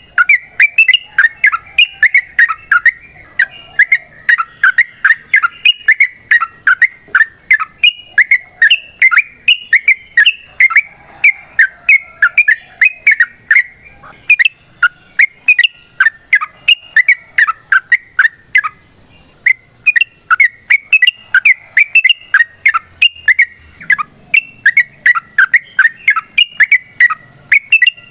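Yellow-vented bulbul (trucukan) singing a long, fast run of short, bubbly chattering notes, several a second, with a couple of brief pauses. A steady high insect buzz runs underneath.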